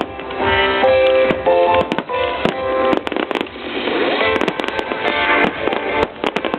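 Fireworks bursting with sharp bangs over loud accompanying music; about halfway through, the music gives way to a dense crackling of many small bursts.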